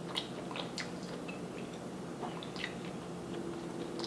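Mouth sounds of someone chewing food from a seafood boil: scattered soft, wet clicks and smacks, over a faint steady hum.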